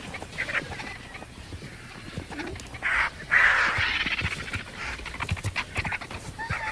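Scavenging animals feeding on a carcass: harsh, hissing calls, loudest from about three to four seconds in, among scattered sharp clicks and snaps.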